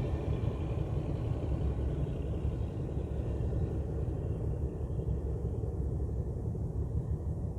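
A ship's engine running with a steady low rumble; a faint higher hum fades out about halfway through.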